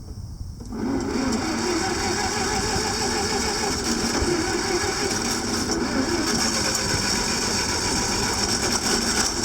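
Wisconsin VG4D air-cooled V4 engine catching about a second in, then running steadily.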